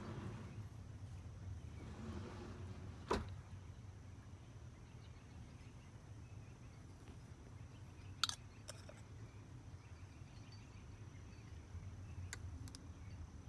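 A few light, sharp knocks of PVC pipe and fittings being handled, the clearest about three seconds in and about eight seconds in, over a faint steady low hum.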